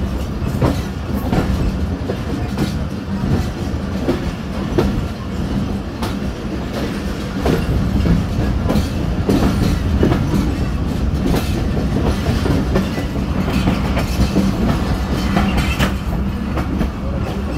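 Pakistan Railways passenger train rolling slowly through a station, its wheels clattering over rail joints over a steady low rumble.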